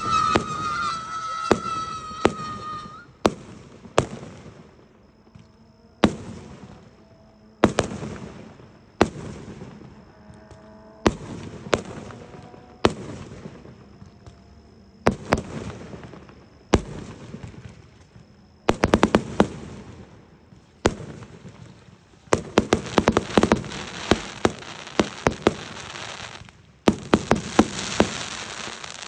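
Aerial fireworks going off in a string of sharp bangs, one shell burst every second or two, with stretches of rapid crackling that grow denser near the end. A high steady whistle sounds for the first three seconds.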